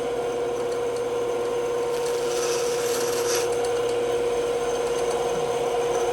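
Bandsaw running with a steady hum as its blade cuts through wood, the cutting noise swelling about two seconds in and easing off again after about a second and a half.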